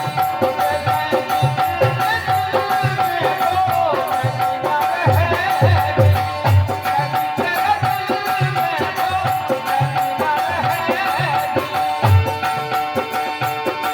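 Indian folk music: a hand drum keeps a steady beat under a wavering melody line and a held note.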